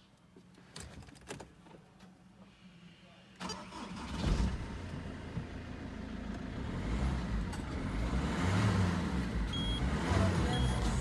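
Peugeot 307 petrol or diesel engine started about a third of the way in after a few faint clicks, then running with a slowly rising level. A few short high beeps sound near the end.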